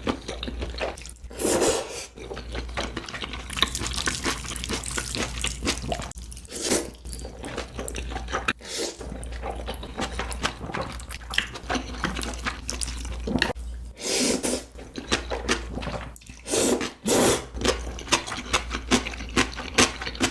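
Wet mouth sounds of eating jjajangmyeon: noodles in black bean sauce being slurped and chewed, with continual smacking clicks and several louder slurps.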